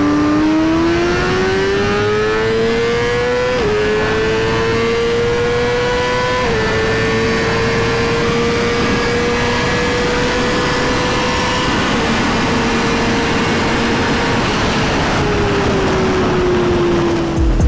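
Litre-class four-cylinder superbike engine accelerating hard: the note climbs, drops sharply with quick upshifts about three and a half and six and a half seconds in, holds at high revs, then falls away as the bike slows near the end, over a steady rush of noise.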